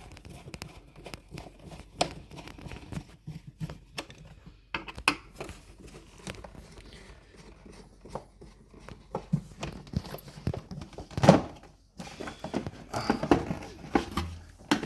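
Scattered clicks, taps and knocks of a screwdriver and hands working on a plastic airbox in an engine bay, with the sharpest knock about eleven seconds in.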